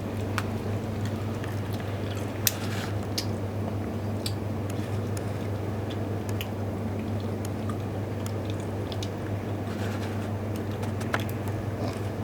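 A person chewing a piece of dried mango fruit roll, with scattered sharp mouth clicks; the loudest comes about two and a half seconds in. A steady low hum runs underneath.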